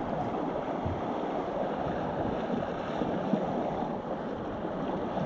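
Steady rush of ocean waves with wind buffeting the microphone.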